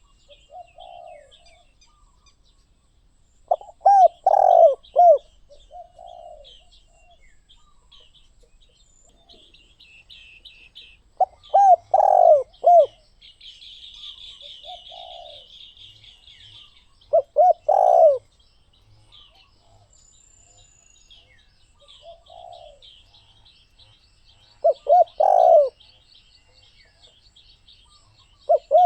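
Spotted dove cooing: a loud phrase of three or four coos repeated every six to eight seconds, with softer single coos between. Small birds chirp faintly in the background, and there is a brief high buzz about halfway through.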